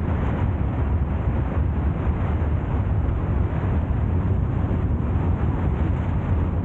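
A car driving along the road at a steady speed: constant wind rush and road noise, deepest at the low end, with wind buffeting the microphone.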